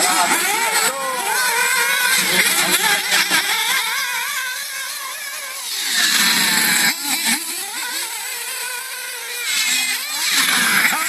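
Battery-powered RC cars driving: their electric motors whine, rising and falling in pitch with the throttle. Bursts of tyre hiss come about six seconds in and again near the end.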